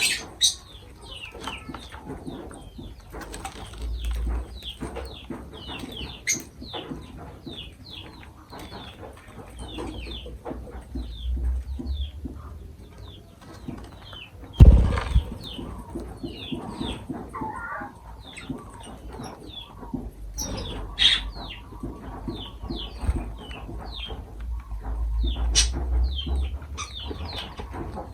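Lovebirds chirping in a steady run of short, quick chirps, with stretches of wing flapping and one loud thump about halfway through.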